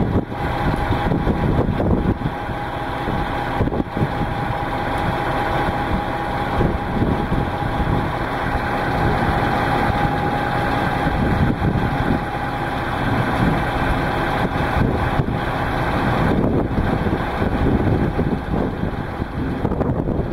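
Heavy rain pouring down in a storm, a steady loud rush, with a faint steady hum under it.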